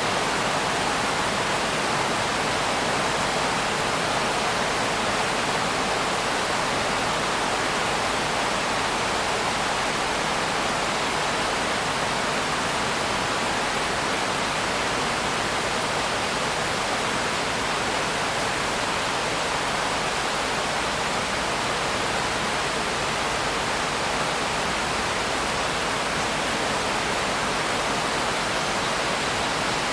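Steady rain, an even unbroken hiss with no separate drops, gusts or thunder standing out.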